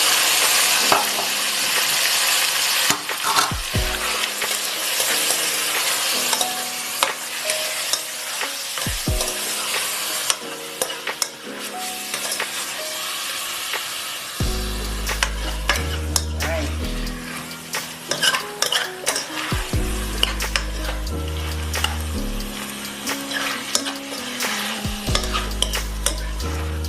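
Chicken pieces sizzling in hot oil in a pan and being stirred, with the utensil clicking against the pan. The sizzle is loudest at the start and eases off. Background music with a low bass line comes in about halfway.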